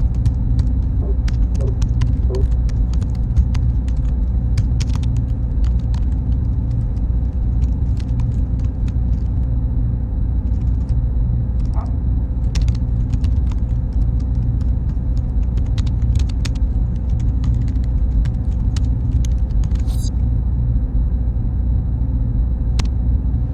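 Steady, unchanging low rumble of running machinery, with a faint high hum and scattered small clicks and ticks over it.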